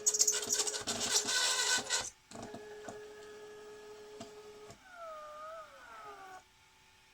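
The 3D-printed SCARA chess robot arm's motors moving: a loud, rasping buzz for about two seconds, then a steady whine, then whines that swoop and fall in pitch as the arm speeds up and slows, stopping about six seconds in.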